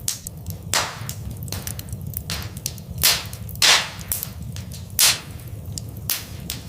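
Wood fire in a fireplace crackling: a steady run of small snaps and pops over a low rumble of burning. Louder pops come about a second in, around three and nearly four seconds in, and at five seconds.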